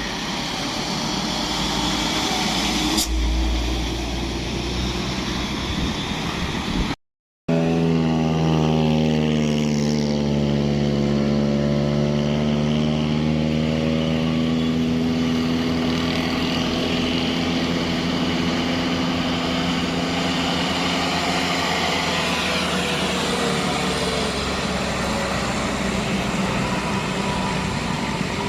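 Heavy truck's diesel engine running hard under load on a climb, a sustained drone of strong engine tones that sags slightly in pitch and then holds steady. The sound cuts out briefly about seven seconds in.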